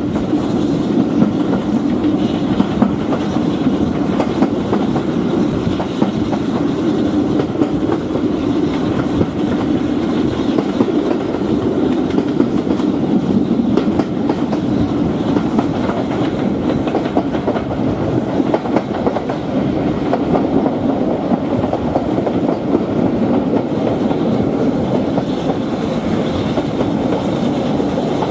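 Steam-hauled passenger train, behind BR 9F 2-10-0 No. 92214, running at a steady speed, heard from an open carriage window. The wheels click over the rail joints in a steady, continuous clatter.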